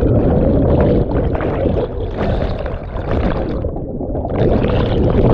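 Loud, continuous rush of heavy whitewater churning around a kayak in big rapids, with the river in flood at about 150 cubic metres a second. The rush eases a little midway and swells again near the end.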